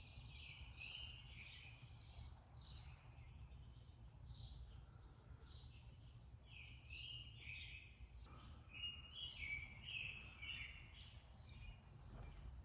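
Faint birds chirping and trilling in repeated short phrases, over a low steady hum.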